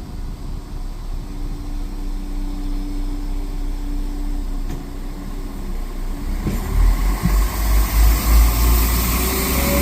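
Train running: a steady engine hum with a couple of steady tones, which grows into a much louder rumble with rising hiss from about seven seconds in.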